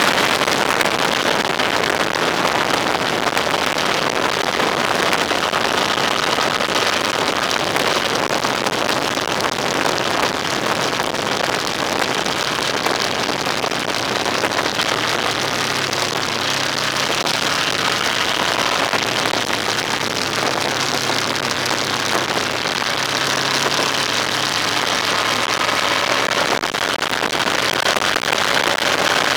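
Steady road and wind noise of a vehicle on the move, with a low engine hum that stands out more clearly in the middle.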